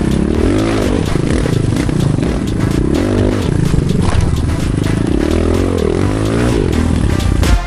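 Enduro dirt bike engine being ridden hard, the revs climbing and dropping again several times as the rider works the throttle.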